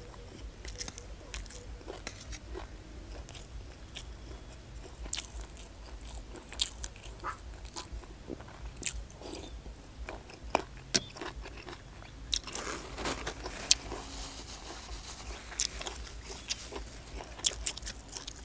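Close-up chewing of hed phao (earthstar puffball) mushrooms, their firm skins giving sharp, crisp crunches scattered through the chewing, with a denser run of crunching a little past the middle.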